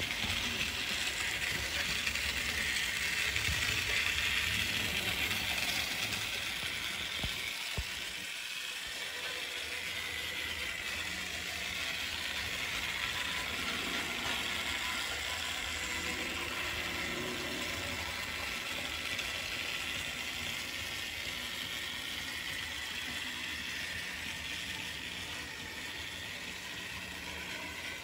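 Märklin BR89 model steam locomotive running on its track: a steady whir of its motor and gears, a little louder in the first few seconds, with a single click about seven seconds in.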